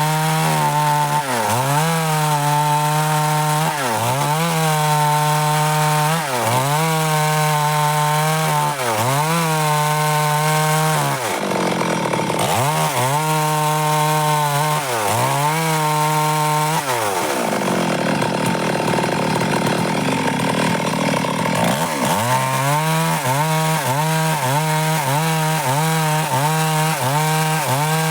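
Stihl MS 382 two-stroke chainsaw running at high revs while cutting dry wood. Its pitch sags briefly about every two seconds as the chain bites, then climbs back. About two-thirds through, the steady note breaks up into a rougher, lower sound for several seconds before it picks up again.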